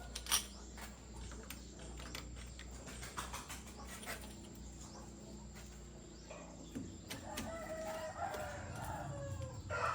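A rooster crowing from about seven seconds in, a long call that slowly falls in pitch. Before it there are scattered clicks and knocks, the loudest a sharp knock just after the start.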